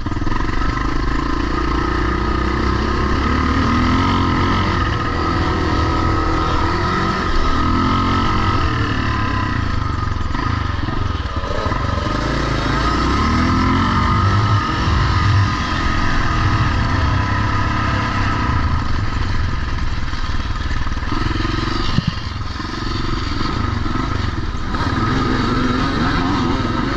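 Vintage pre-1990 motocross motorcycles running on the track, their engines revving up and down again and again, with several engines overlapping.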